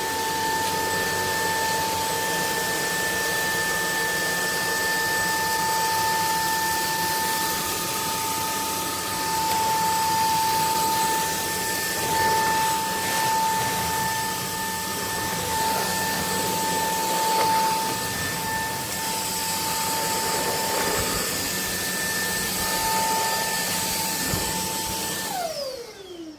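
Bulelink 580 W cordless stick vacuum running steadily, a high motor whine over rushing air. About a second before the end it is switched off and the whine falls away as the motor spins down.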